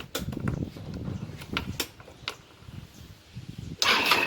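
A few sharp clicks and knocks, then a 125 cc scooter engine starting suddenly near the end and running on, at the test after the ignition coil and wiring were replaced.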